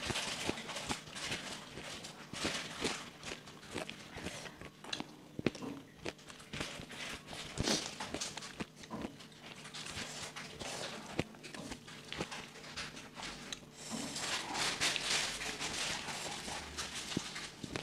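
People eating by hand at close range: chewing and smacking their lips, with many irregular wet clicks. The sound gets denser and hissier near the end.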